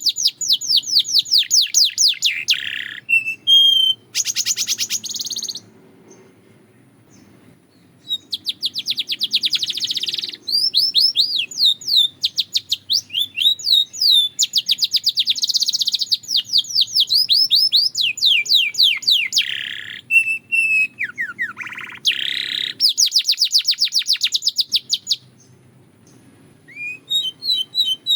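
A canary singing long phrases of fast repeated chirping notes and rolling trills, mixed with notes that slide downward. The song breaks off for a couple of seconds about six seconds in and again near the end.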